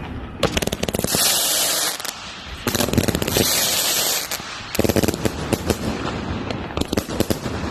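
Fireworks going off: three stretches of rapid, crackling bangs in quick succession, each with a hiss.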